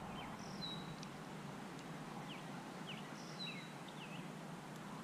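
Faint birdsong over quiet outdoor background: scattered short high chirps, and a brief high whistled phrase heard twice.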